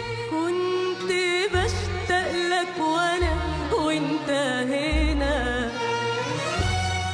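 Middle Eastern-style song: a singer's ornamented, wavering melody over instrumental backing, with a low bass note pulsing every second or two.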